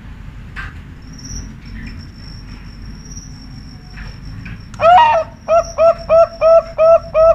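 Zebra dove (perkutut) singing: about two-thirds in, a loud run of quick repeated coos begins, about three a second. Before that there is only low background with a steady high thin trill, like a cricket.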